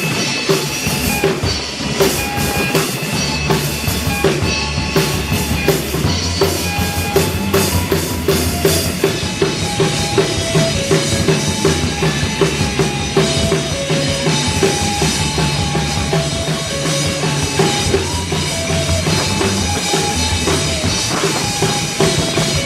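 A live band playing an instrumental passage, driven by a drum kit's bass drum and snare with pitched notes over a steady beat; cymbal crashes ring out through the first several seconds, then thin out.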